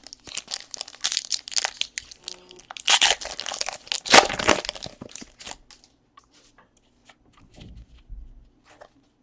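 Foil wrapper of a trading-card pack being torn open and crinkled, a dense crackling rustle for about the first five seconds, then only scattered light rustles and clicks as the cards are handled.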